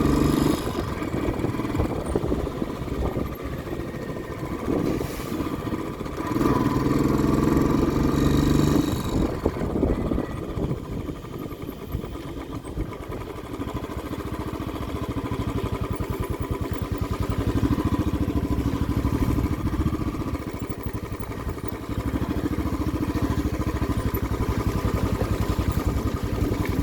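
A vehicle's engine running while driving, with its pulsing rising and falling in loudness as it goes.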